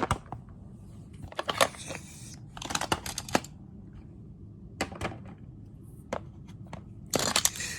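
Toys being handled and moved about: scattered clicks, taps and short rustles, with a brief burst of rustling near the end.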